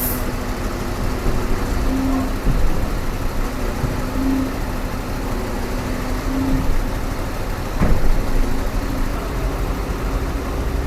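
A heavy machine's engine idling steadily, with a short knock about eight seconds in.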